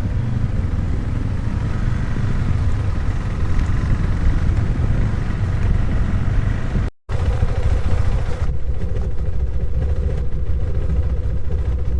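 Motorcycle running under way, a steady loud low rumble of engine and wind. The sound cuts out completely for a moment about seven seconds in, then resumes a little duller.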